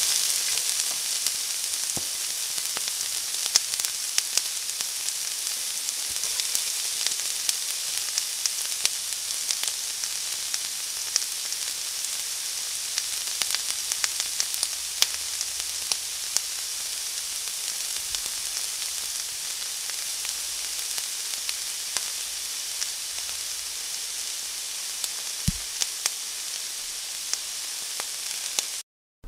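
Raw chicken pieces sizzling in hot oil and masala in an aluminium pot, a steady hiss that slowly eases. A metal slotted spoon stirring the pot makes scattered sharp clicks against its sides.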